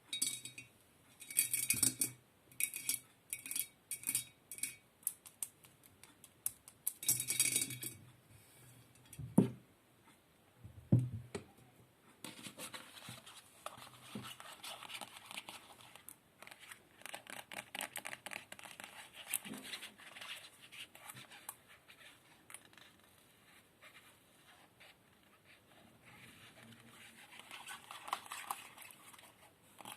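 Close-miked ASMR trigger sounds made by handling hard objects. In the first few seconds there are a few bright clinks that ring briefly; from about twelve seconds in come rapid light tapping and scratching.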